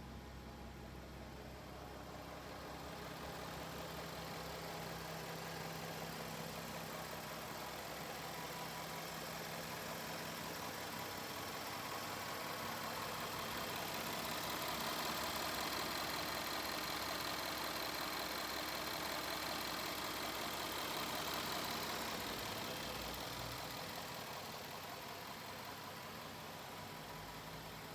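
A car engine idling steadily, the sound swelling gradually to its loudest through the middle and easing off again near the end.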